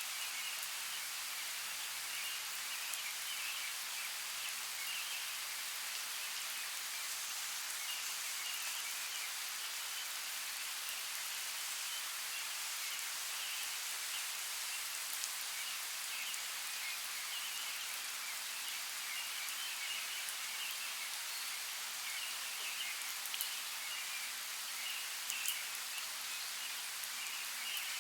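Steady, even hiss of water, as from a forest creek or falling rain, with a few faint ticks near the end.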